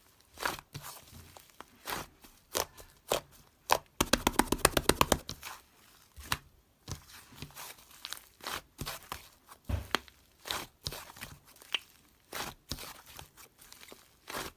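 Slime being squeezed and stretched by hand: scattered sticky clicks and crackles, with a quick run of popping about four seconds in.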